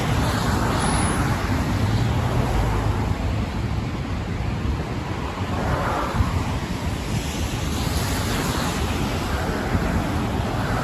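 Wind buffeting the microphone over a steady rush of road traffic, swelling a couple of times as vehicles pass.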